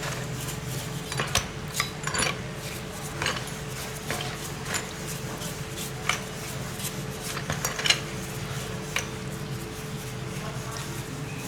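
Metal tools and parts clinking and scraping in irregular light knocks, one louder clink near the end, over a steady low machine hum.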